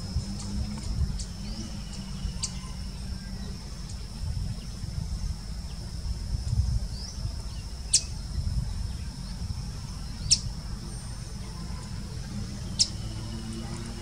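Bird chirps: a few short, sharp high calls a couple of seconds apart, with a couple of brief rising ones, over a steady thin high-pitched tone and a low rumble.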